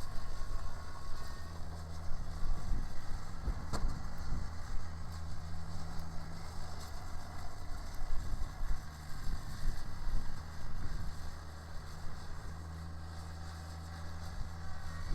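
Kubota BX sub-compact tractor's diesel engine running with its rear-mounted snowblower working, a steady low drone under a fluctuating, noisy rush. There is one sharp knock about four seconds in.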